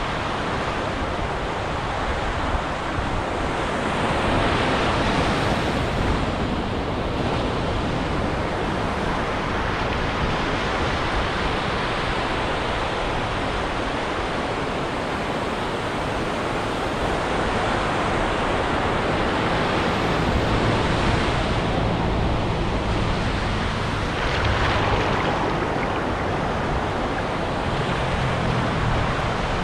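Ocean surf breaking and washing up a beach, a steady rushing hiss that swells louder several times as waves come in.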